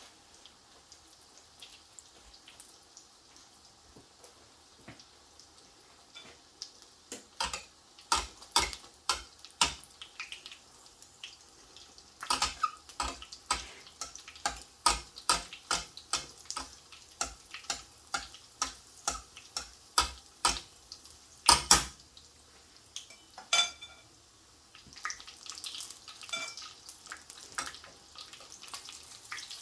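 Kitchen utensils clicking and knocking on dishes and a pan in quick runs of sharp taps, followed near the end by a steady hiss of running tap water.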